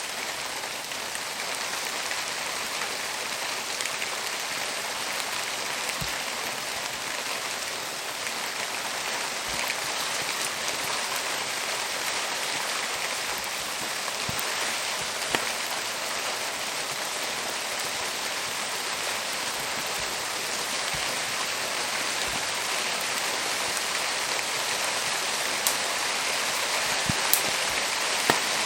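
Steady rain falling, with a few sharp pops and cracks from a wood campfire burning in it, several of them in the last few seconds.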